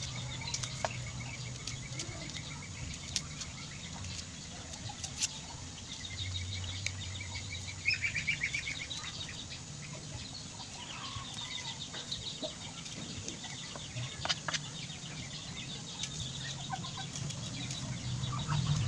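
Birds calling several times in short, rapid trills, over faint clicks and rustles of dry shallot skins being peeled by hand.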